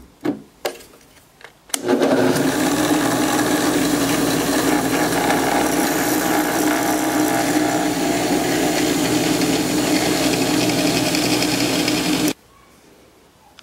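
An electric drill boring a hole through a wooden ball. After a few short clicks, it runs steadily under load for about ten seconds, then stops suddenly.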